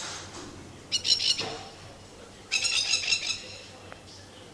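Plovers giving two bursts of rapid, harsh, repeated alarm calls, about a second in and again about two and a half seconds in: nest-defence calls from birds guarding their eggs.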